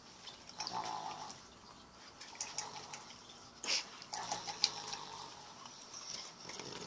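Pit bull making faint wet, snuffly noises through her nose and mouth while gripping a ball, broken by a few short sharp bursts, the loudest a little under four seconds in.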